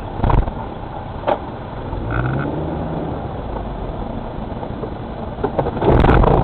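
Steady road and engine noise of a car heard from inside, with a few clicks early on and a brief tone about two seconds in. Near the end comes a loud clattering burst.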